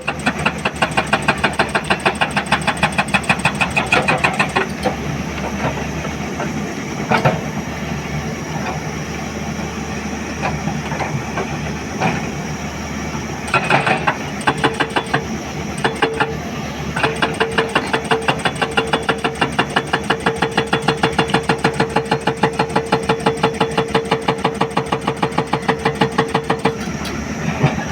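Hydraulic rock breaker on a Hyundai 210 excavator hammering rock in long runs of rapid, evenly spaced blows, over the excavator's diesel engine running steadily. The blows pause for a few seconds in the middle, leaving only the engine.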